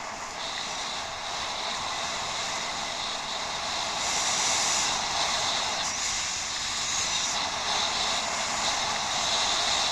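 Steady rushing wind and tyre noise from a moving bicycle, picked up by a head-mounted action camera. It grows louder over the first few seconds, then holds.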